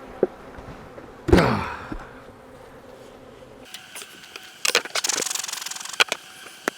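Wooden honey supers being handled: a knock, then a loud scrape as a heavy box slides into place, followed later by sharp clicks and a short, fast rattle.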